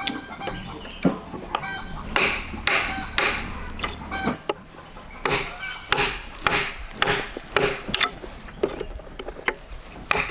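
Repeated blows on wood, about two a second, some with a short ringing after the strike.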